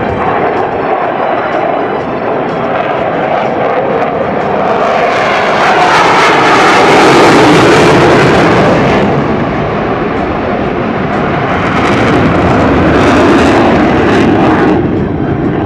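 KAI T-50 Golden Eagle jet trainer's jet engine during a low display pass, its noise swelling to a loud peak in the middle as it passes close, fading, then swelling again near the end.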